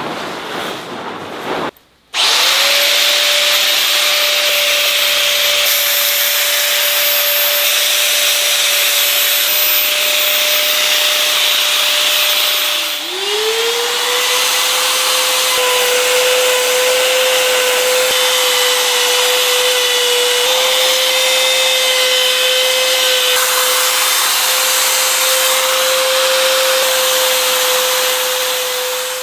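A handheld power tool starts up about two seconds in and runs at a steady high whine, working wood. Its pitch dips briefly about halfway through, then holds a little lower.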